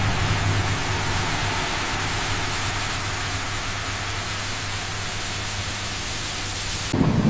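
Steady hiss of noise, with a low hum fading out in the first second; it cuts off suddenly near the end, giving way to a louder, lower sound.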